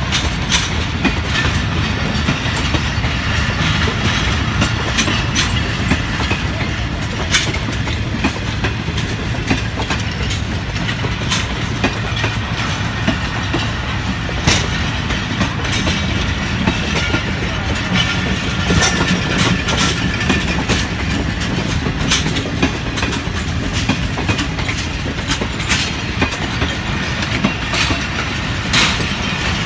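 Passenger train rolling past with a steady low rumble, its wheels clacking again and again over the rail joints.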